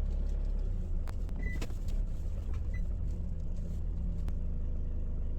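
Hyundai Starex van's engine running with a steady low rumble as the van is manoeuvred, with a few faint clicks.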